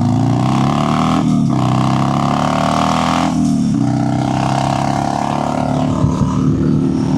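Motorcycle engine heard from the rider's own bike, pulling up through the gears. The pitch climbs and dips at a shift about a second in, climbs again, and dips at another shift around three and a half seconds in, then runs at a steady cruise. Wind rush is on the microphone throughout.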